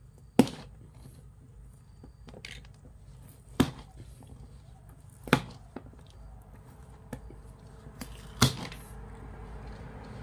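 Four sharp knocks of a few seconds apart, with lighter clicks and taps between them, from hand work on a truck tyre and tube.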